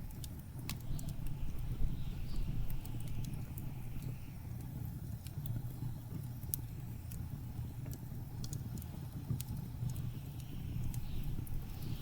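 Wood fire crackling with scattered sharp pops over the steady low roar of blizzard wind, which gusts up into a hiss twice, near the start and near the end.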